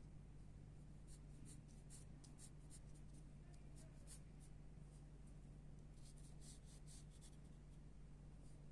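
Pencil strokes on paper, faint and scratchy, coming in quick runs of short strokes with a pause of a second or two in the middle. A steady low hum sits underneath.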